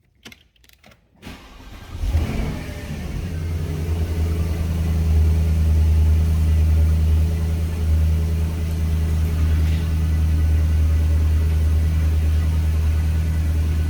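A car engine is cold-started. A few clicks are followed by a short crank, and the engine catches about two seconds in with a flare of revs. It then settles into a steady cold idle.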